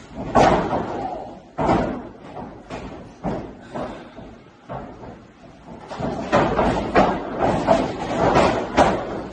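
Heavy slams and thuds echoing in a large hall, a few seconds apart at first, then coming thick and fast in the second half.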